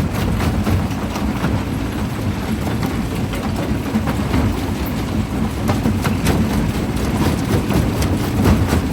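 Primary jaw crusher running, a steady low rumble with scattered sharp knocks and cracks of rock breaking in the jaws.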